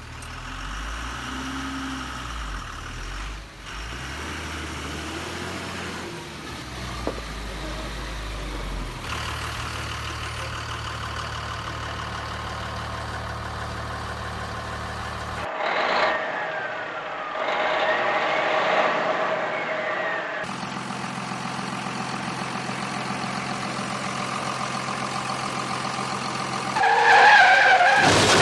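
Truck engine sounds cut together in abrupt segments: engines running and revving. A louder pitched burst comes near the end.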